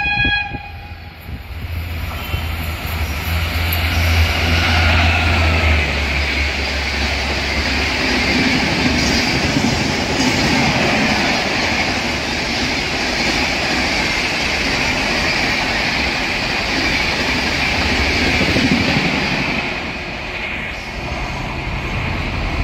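Express train passing at speed close by: a steady rushing rumble of wheels on the rails, with a low hum under it for the first several seconds. The sound eases slightly near the end.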